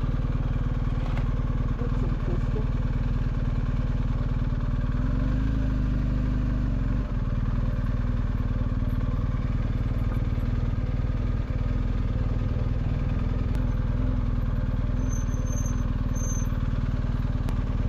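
BMW R1250GS boxer-twin engine running steadily under way, its note shifting briefly about five seconds in.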